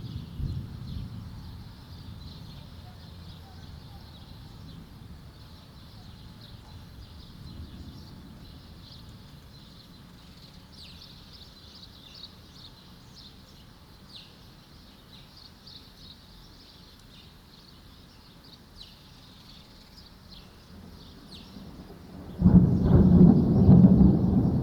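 Thunder: a rumble dies away at the start, then after a quiet stretch with small birds chirping, a sudden loud thunderclap breaks out near the end and rumbles on.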